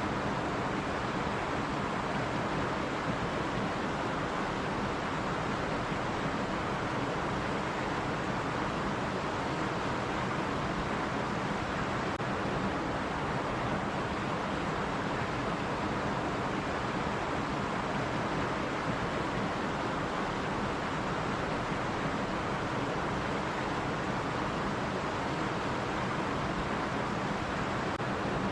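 Stream water running over rocks, a steady rushing flow without breaks.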